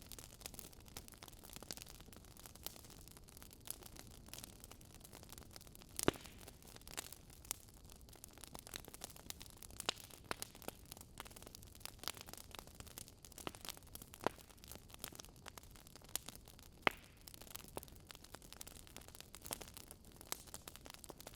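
Wood logs burning and crackling, with irregular sharp pops and snaps over a soft steady hiss; one pop about six seconds in and another near seventeen seconds stand out as the loudest.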